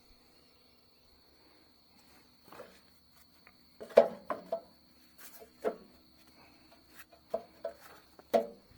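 Crickets trilling steadily with one high thin tone. Over it, a run of sharp knocks and clatters starts about two and a half seconds in, the loudest about four seconds in and several more near the end.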